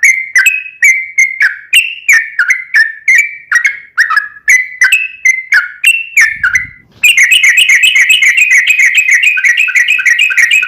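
Yellow-vented bulbul (trucukan) song: a string of short, falling whistled notes about two a second. About seven seconds in, it breaks into a long, rapid rolling run of notes (the 'ropel').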